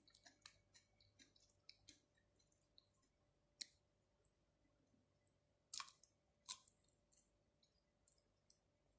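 Faint close-up mouth sounds of eating: scattered soft, sticky clicks from chewing, with a few louder clicks about a third and two-thirds of the way in.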